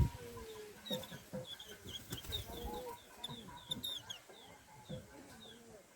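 Run of short, high, thin chirps, a few a second, from white-eyes at the nest, over lower clucking of chickens in the background.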